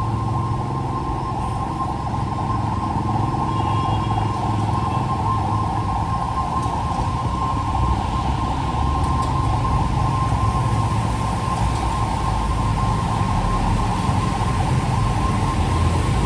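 Steady city street traffic noise: vehicle engines running, with a constant high tone over the rumble.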